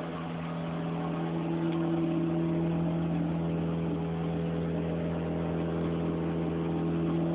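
Honda Civic's B16 four-cylinder engine idling steadily.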